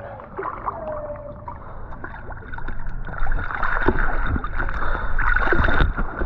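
River water rushing and gurgling around a whitewater kayak, with several sharp paddle splashes.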